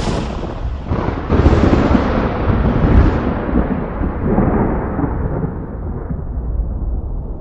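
Thunder: a sharp crack at the start and another about a second in, rolling into a long low rumble that fades and sinks in pitch over the next several seconds.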